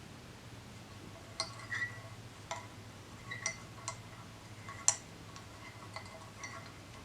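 Light clinks of small hard objects, about eight, at irregular intervals, each ringing briefly; the sharpest comes about five seconds in.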